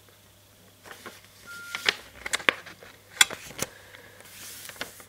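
A sheet of paper being folded and creased by hand: after a quiet second, a run of sharp crackles and rustles as the fold is pressed down.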